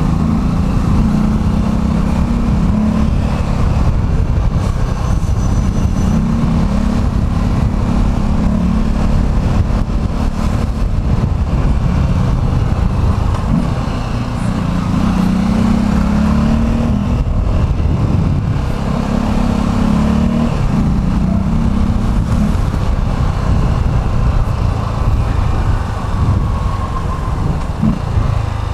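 Vehicle engine running under way, speeding up and easing off several times, over a steady low rumble.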